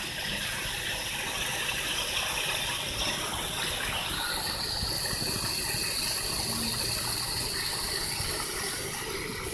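Steady rush of running water in a beaver's pool, with a thin high whine joining about four seconds in.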